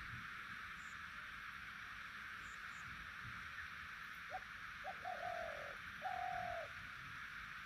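A bird calling: two short notes, then two longer ones that fall slightly in pitch, starting about four seconds in, over a steady background hiss.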